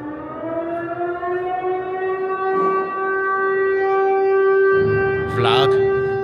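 Air-raid style siren wailing: it climbs a little in pitch as it winds up, then holds one steady, loud tone.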